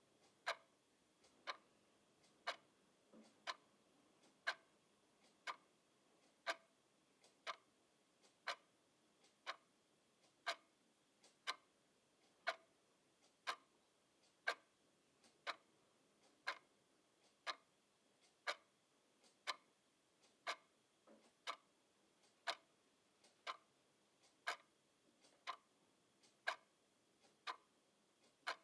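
Clock ticking steadily, about once a second, each tick a short sharp click.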